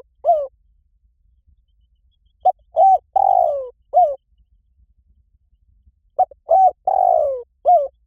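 Spotted dove cooing: the tail of one phrase, then two full phrases about four seconds apart. Each is a short note, a rounded coo, a longer falling coo and a short closing coo.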